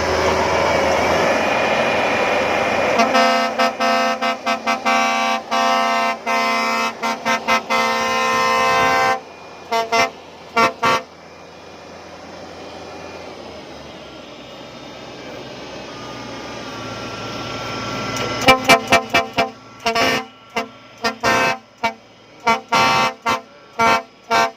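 Multi-trumpet air horn fitted to a rice combine harvester, sounded in rapid rhythmic toots: a long run of short blasts, a few more, then a second fast series near the end. The harvester's engine runs underneath.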